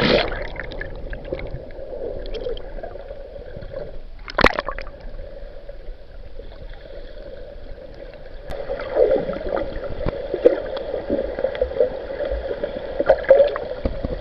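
Sea water sloshing and gurgling close to a GoPro, with a single sharp knock about four and a half seconds in.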